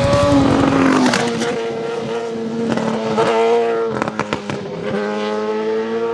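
Superbike engine running at held revs, its note steady and then shifting pitch a few times.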